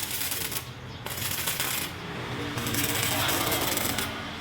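Metalworking noise from a truck cage repair: three harsh, scraping bursts, each about half a second to a second and a half long, with short gaps between them.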